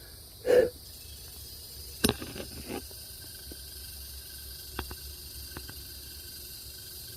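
A short puff of breath about half a second in and a sharp tap near two seconds. Then a faint, steady high squeak follows from a female eastern velvet ant (cow killer): her defensive stridulation, made by sliding the segments of her abdomen against each other.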